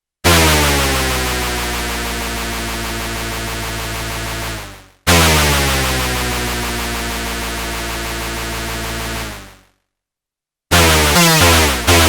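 Arturia MicroBrute monophonic analog synthesizer playing a hoover patch: two long held notes, each sliding down in pitch as it starts and fading out when released. After a short silence near the end, a fast run of short repeated notes begins.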